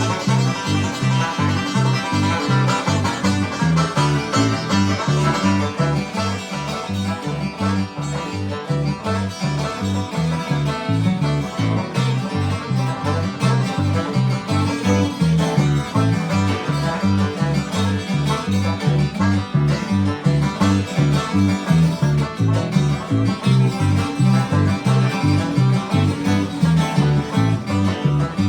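Bluegrass band playing a hard-driving instrumental, with five-string banjo picking over guitar and a steady alternating bass line.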